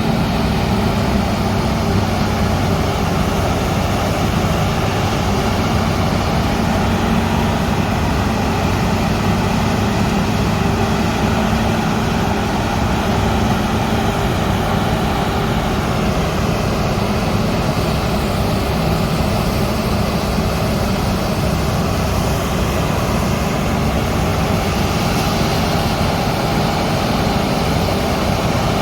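Combine harvester's diesel engine and threshing machinery running steadily at constant speed, a loud even drone with a steady tone.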